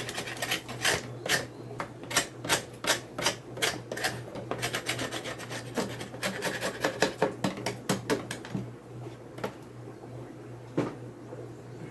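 Propolis being scraped off the top of wooden beehive frames in quick repeated rasping strokes, thinning out after about eight seconds, with one sharp knock near the end.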